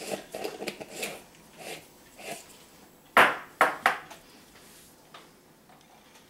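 Kitchen clatter of hard utensils and cookware: a run of small clicks and rattles at first, then three sharp knocks with a short ring about three seconds in, quick one after another.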